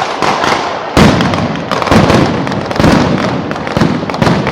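Fireworks exploding in rapid succession: a few bangs, then from about a second in a dense barrage of loud reports, several a second.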